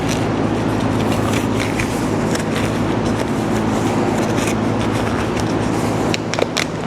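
Steady low machine hum, with light rustling and a few small clicks and snaps of gloves being pulled on by hand.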